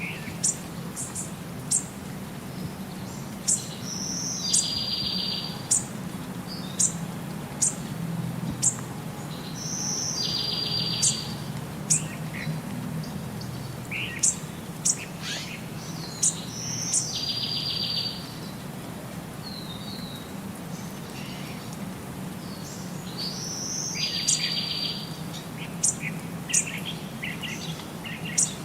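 Birds calling: sharp high chirps every second or two, and a high phrase ending in a short buzzy trill repeated about every six to seven seconds, over a steady low hum.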